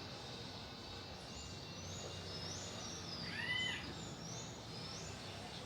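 Small birds calling: a string of short, high, arched chirps, with a louder, lower double call about three and a half seconds in, over a steady background hum of outdoor noise.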